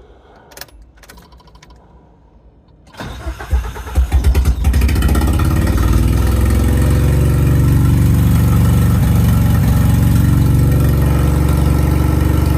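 1987 Nissan 200SX S12 Silvia engine being started: a few clicks, then about a second and a half of cranking before it catches and settles into a steady idle. It is a test start on a freshly uploaded ECU map with revised mass-airflow sensor settings.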